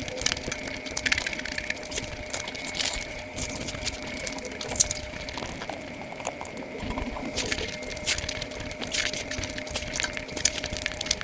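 Close-miked eating sounds sped up about five times: a rapid, dense run of wet chewing, smacking and squishing clicks from someone eating puri with curry, over a faint steady tone.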